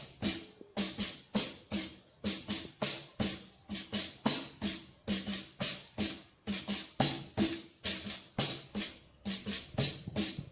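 Pandeiro, the capoeira tambourine, struck in a steady rhythm of about three beats a second, each hit giving a low thump of the head with a ring of jingles.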